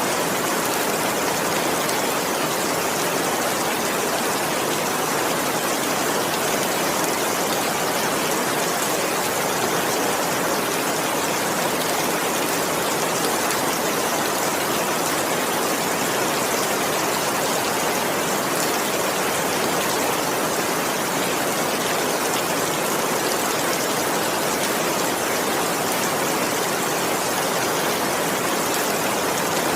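Steady rain, an even hiss with no distinct drops, thunder or change in strength.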